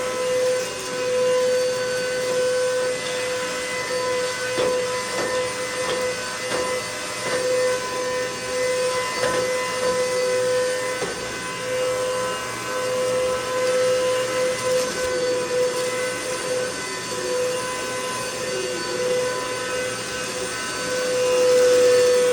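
Hoover MaxLife Total Home vacuum cleaner running steadily, its motor giving a constant high whine, with a few faint clicks in the first half.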